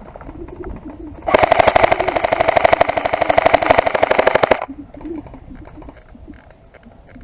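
Airsoft rifle firing one sustained full-auto burst of about three seconds, a fast, even rattle of shots starting just over a second in and cutting off sharply. Faint clicks and rustling around it.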